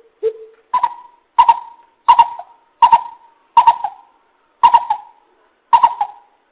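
Greater coucal (bìm bịp) giving its deep hooting call: a run of about eight short hoots, roughly one every three-quarters of a second. The first couple are lower in pitch and the rest jump up higher and louder.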